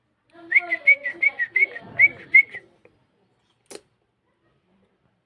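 Cockatiel whistling a quick run of about ten short, chirpy notes over about two seconds, with a single sharp click a second later.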